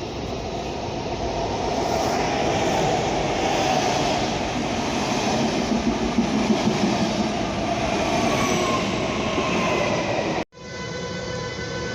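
Train running through a station: a steady rumble of wheels and motors, with a falling whine near the end. About ten seconds in the sound cuts abruptly to a steady electric hum of several tones.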